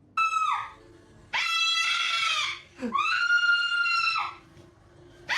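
Parrot screaming: a short, loud shriek, then two long, held screams at a steady high pitch, and another scream starting just at the end.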